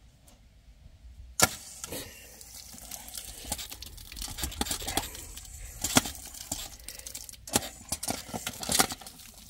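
A dog's water fountain starting abruptly about a second and a half in, then spraying water with irregular splashing and spattering.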